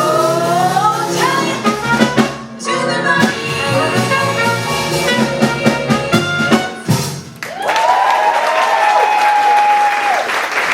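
Swing band with brass and saxophones backing a close-harmony female vocal trio, breaking off briefly twice and then landing on a long held final chord in the last few seconds.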